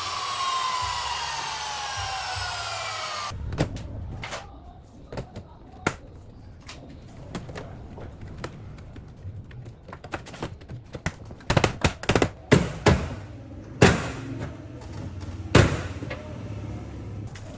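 A power tool's motor spinning down, its pitch falling steadily, which cuts off abruptly about three seconds in. Then irregular sharp knocks and taps of workshop handling, clustering more densely in the second half.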